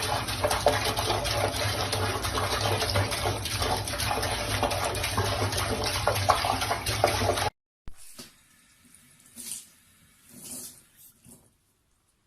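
Steady rush of running water, like a tap running into a sink, that cuts off abruptly about seven and a half seconds in; a few faint, soft sounds follow.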